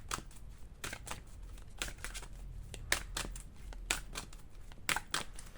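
A deck of fortune-telling cards being shuffled by hand, with irregular crisp snaps and flicks of card against card, a strong one about every second and lighter ones between.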